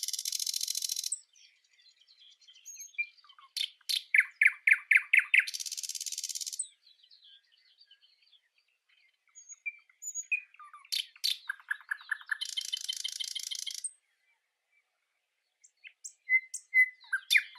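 A small bird singing: a repeated phrase of quick high chirps, each run ending in a dry, buzzy trill lasting about a second, heard three times with short pauses between.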